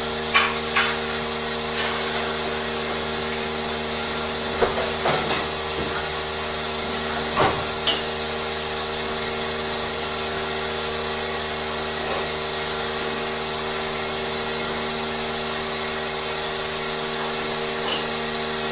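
Steady hum of dairy-barn machinery with several steady tones underneath, and a few short knocks and brief falling squeals scattered through the first half.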